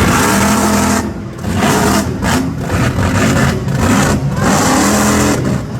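Monster truck engine revving hard in repeated bursts, the throttle dropping off and opening again several times as the truck does its freestyle run.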